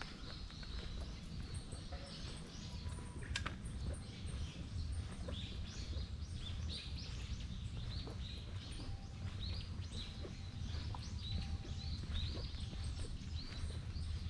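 Birds chirping repeatedly in the trees, short high calls coming every half second or so, over a steady low outdoor rumble.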